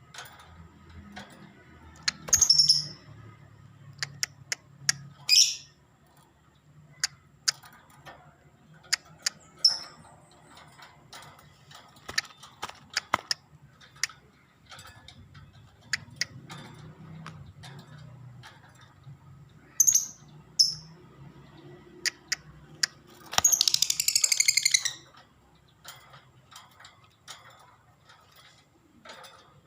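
Lovebird giving short, sharp high-pitched chirps every few seconds, then a longer, louder chattering burst near the end: a young bird still learning to sing in continuous runs. Scattered sharp clicks sound between the calls.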